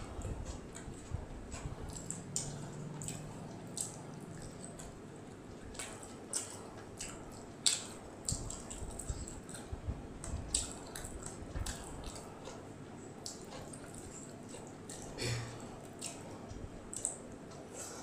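Close-miked eating: chewing rice and chicken with irregular wet smacks and clicks of lips and tongue.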